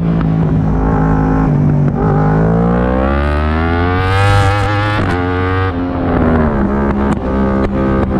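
Yamaha R1 inline-four racing engine under hard acceleration, its pitch climbing steadily for a couple of seconds before dropping sharply on an upshift about five seconds in. Shortly after, the pitch glides down, then holds steady.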